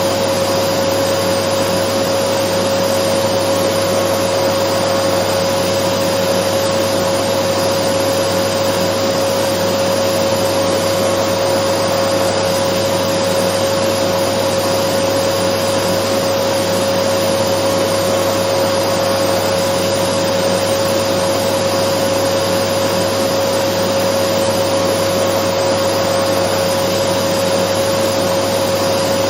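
Dyson vacuum cleaner running steadily: an unchanging rush of air with a steady mid-pitched whine on top.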